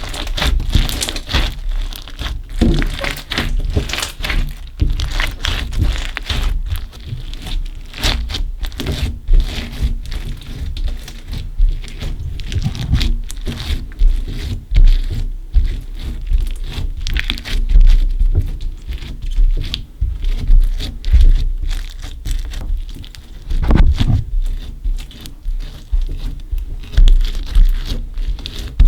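Slime mixed with small coloured beads being squeezed, stretched and pressed by hand, giving a dense, irregular run of wet clicks, pops and crunchy crackles.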